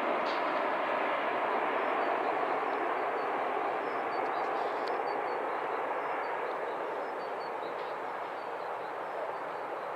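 Boeing 747-400 jet engines heard as a steady rushing noise that slowly fades as the airliner moves away.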